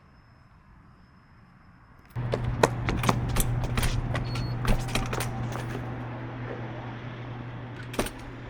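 A car engine and exhaust come in suddenly about two seconds in, running with a steady low drone and many sharp cracks and pops, then fade slowly.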